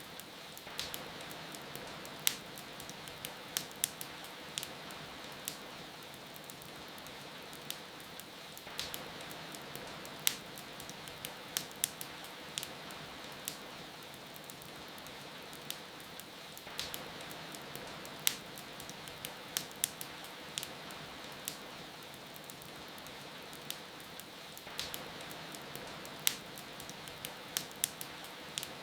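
A wood fire crackling, with sharp irregular pops and snaps several times a second at their busiest, over a steady hiss of rain.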